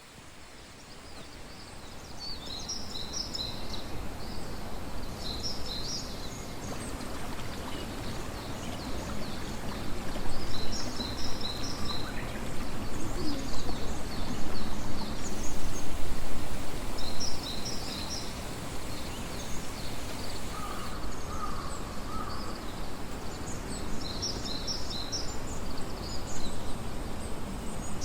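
Jungle ambience: a steady rushing noise, with clusters of high chirping bird calls repeating every few seconds. Louder irregular rustling comes and goes in the middle.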